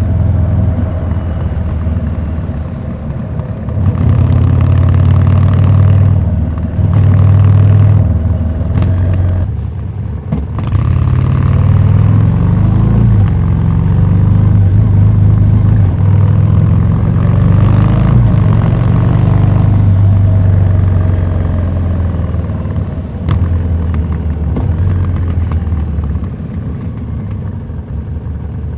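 Harley-Davidson Street 750's V-twin through a Vance & Hines slip-on exhaust, under way: the engine note climbs and falls several times as the rider opens the throttle, shifts and rolls off.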